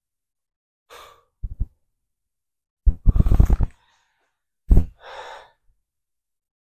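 A man breathing hard from exertion while holding a plank: a string of separate sighs and forceful exhales, the longest and loudest about three seconds in, with another strong one near the end.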